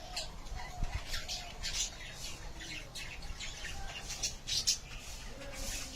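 A flock of budgerigars chattering: a continuous run of short chirps and squawks.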